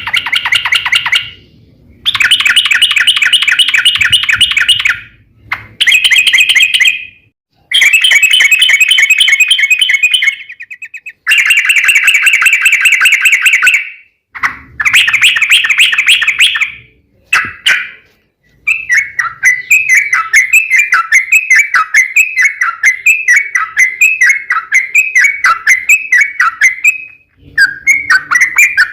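Yellow-vented bulbul (trucuk) singing loudly: several long, rapid trilling phrases a few seconds each with short pauses between, then from about two-thirds of the way in a steady series of short, repeated down-slurred notes at two to three a second.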